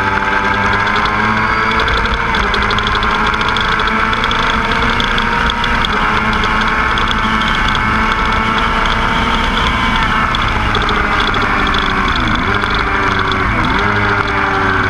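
Motorcycle engine running hard on a race track, heard from on board: its pitch climbs slowly, falls away after about ten seconds, then dips sharply and briefly three times near the end.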